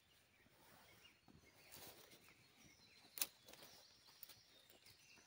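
Quiet forest air with faint bird chirps, and a single sharp crack of wood about three seconds in, from branches being broken or thrown onto a campfire.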